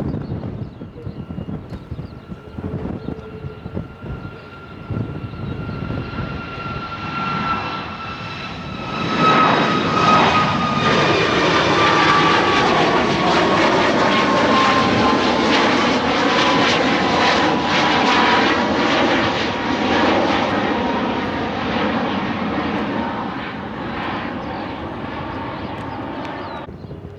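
Jet airliner passing low overhead: engine noise builds to a loud rush with a high whine that slides slowly downward in pitch as it goes by, then fades and cuts off abruptly near the end.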